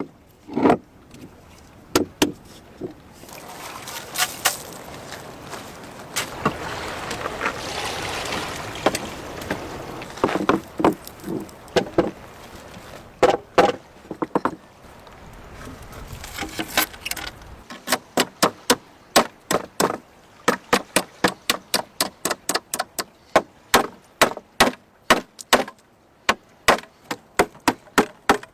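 Repeated sharp knocks: scattered at first, with a stretch of steady noise in the first half, then a regular run of about two to three knocks a second from a little past halfway.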